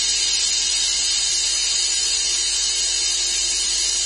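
A steady, even hiss with a faint high whine running under it, unchanging throughout.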